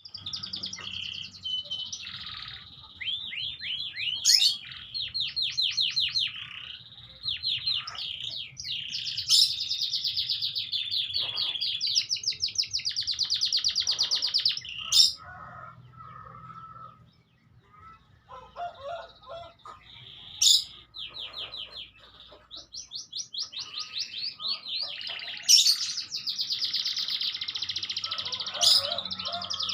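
Domestic canary singing long rolling trills of fast repeated notes, broken by a few sharp, very brief notes, with a short pause about halfway through before the song starts again.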